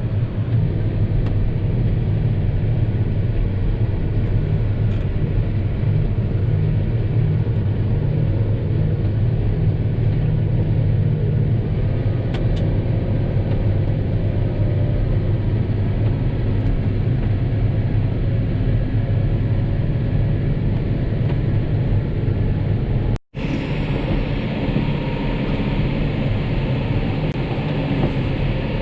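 John Deere 6250R tractor's six-cylinder diesel engine running steadily under load while pulling a chisel plough cultivator. About 23 seconds in, the sound drops out for an instant and comes back with more high-pitched noise over the same drone.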